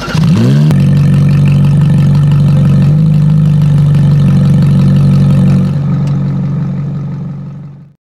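Toyota Camry engine starting: it catches and the revs climb in the first second, then it settles into a steady idle. It is run to check the exhaust piping for leaks. The sound fades out near the end.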